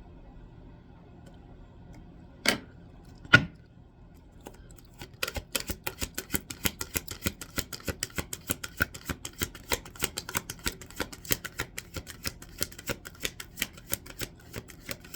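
A deck of oracle cards being shuffled by hand. Two separate clicks, then from about five seconds in a steady run of card snaps, about four a second.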